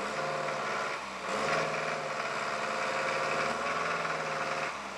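Land Rover Series III engine revved and held at raised revs, briefly dipping and picking up again about a second in, then dropping back near the end.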